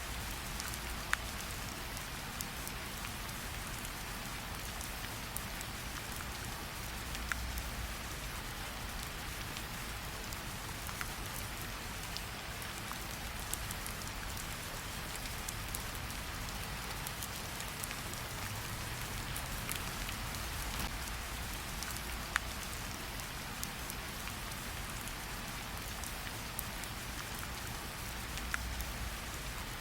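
Steady rain falling, mixed with a campfire's crackle and a handful of sharp pops.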